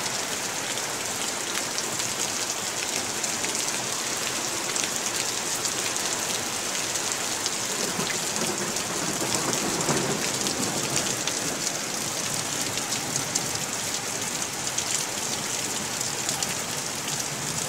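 Heavy downpour: a steady hiss of rain falling on grass, puddles and wooden boards, with fine drop ticks throughout. A low rumble of thunder comes about halfway through.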